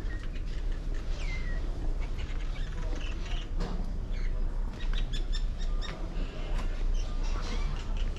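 Birds chirping and calling, short high notes and a few falling whistles, with a quick run of chirps about midway, over a steady low rumble.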